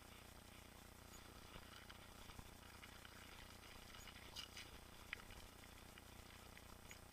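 Faint crackle with a few sharp clicks, the clearest two a little past the middle, from a mountain bike being ridden along a trail: tyres on the ground and the bike's rattles.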